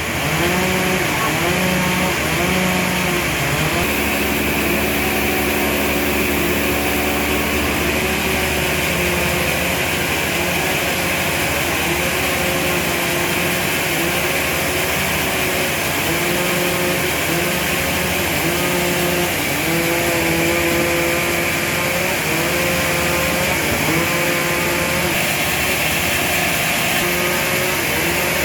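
Sawmill machinery running steadily, with an engine-driven saw whose pitch rises and falls every second or two over a constant mechanical noise.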